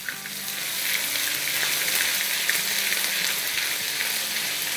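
Ginger and garlic paste frying in hot oil with mustard seeds in a wok: a steady crackling sizzle that grows louder over about the first second.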